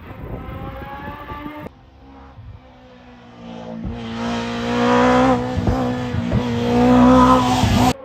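Race car engine at high revs on a hill climb, growing louder as the car comes closer, with a few short breaks in the note. It stops abruptly near the end.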